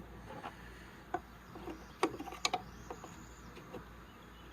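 A few light, separate clicks and taps of small parts being handled while a gas shock's mounting hardware is fitted, with a faint thin high chirp about three seconds in.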